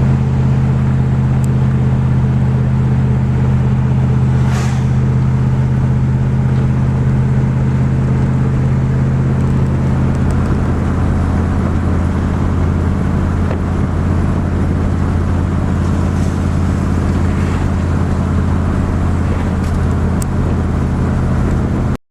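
V8 truck engine running on wood gas from its gasifier: a steady low drone with a slight shift in its pitch about ten seconds in.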